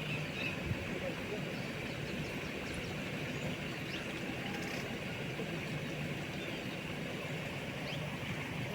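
A motor running steadily at an even level, with a few faint short chirps over it.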